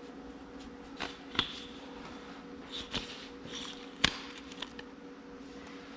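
A few sharp clicks and knocks of tools or parts being handled, over a steady low electrical hum.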